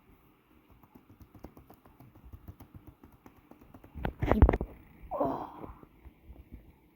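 Hands handling and pressing folded, glued paper: a run of light ticks and rustles, then a louder bump of handling noise about four seconds in.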